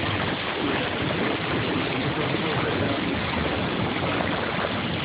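Steady rush of water along the hull of a boat under way, with the boat's motor humming low underneath.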